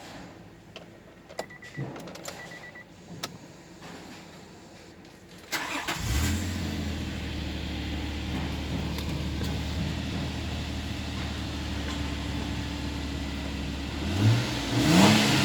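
A few clicks and short beeps, then the Nissan Elgrand's VQ35DE 3.5-litre V6 cranks and catches about five and a half seconds in and settles into a steady, even idle. Near the end it is revved once briefly, the pitch rising and falling back.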